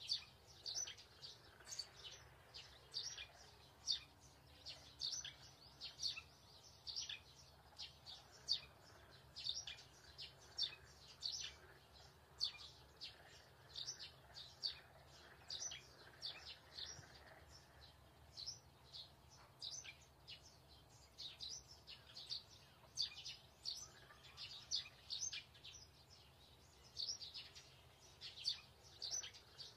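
Small birds chirping steadily, with short high chirps two or three a second.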